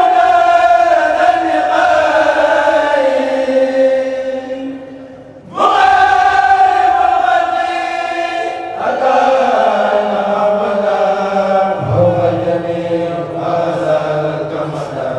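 A kourel, a group of voices chanting a religious poem in unison without instruments, in long drawn-out phrases that sink slowly in pitch; a new phrase starts after a short breath about six seconds in.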